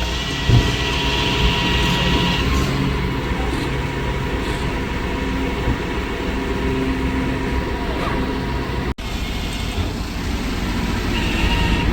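A motor vehicle engine running steadily with a low, even hum, with a single knock about half a second in. The sound cuts out briefly about nine seconds in.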